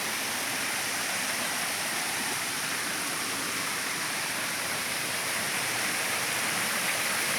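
Waterfall rushing: a steady hiss of falling water, growing slightly louder toward the end.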